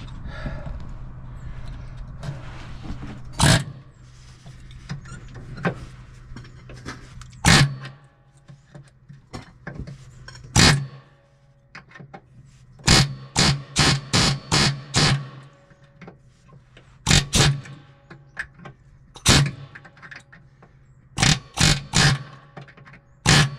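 Hammer blows on a chisel driven against a welded-on nut to break it loose: sharp metallic strikes, some single and some in quick runs of three to five. A low steady hum runs under the first few seconds and stops.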